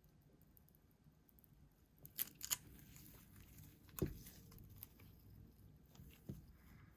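Faint cracking and clicking from a cracked phone back glass being pried off its adhesive: a couple of sharp cracks about two seconds in, a louder knock about four seconds in, and another click near the end.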